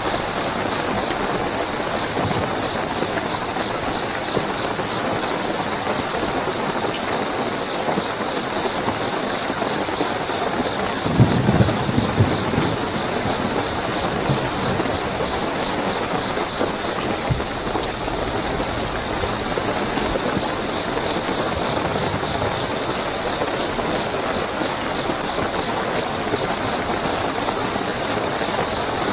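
Steady heavy rainfall with crickets' continuous high trill running over it. About eleven seconds in, a brief low rumble swells and fades.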